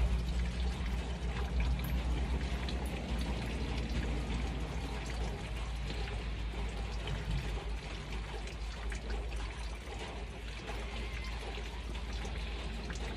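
Light rain pattering steadily, a dense run of small ticks, over a steady low rumble.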